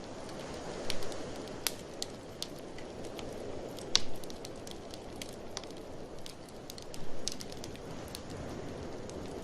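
Wood fire in a fireplace crackling, with scattered sharp pops, the loudest about a second in, near four seconds and about seven seconds in, over a steady low rush of blizzard wind.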